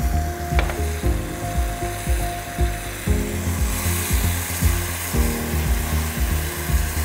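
Tomato-onion masala sizzling in a hot wok while yogurt is poured in, with the hiss growing brighter about halfway through. Soft background music with sustained chords plays underneath.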